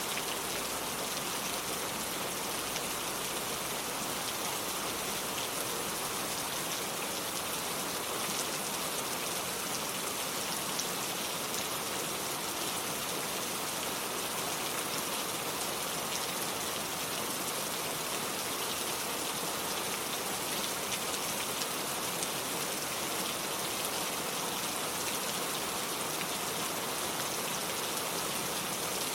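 Steady rain falling, an even hiss of many fine drops that holds constant without any single standout drip or gust.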